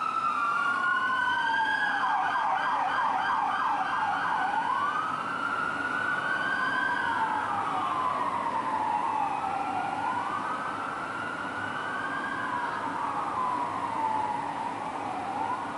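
Electronic siren of a Los Angeles Fire Department rig responding code 3, in a slow wail rising and falling in pitch. About two seconds in it switches to a faster yelp for a couple of seconds, then goes back to the wail.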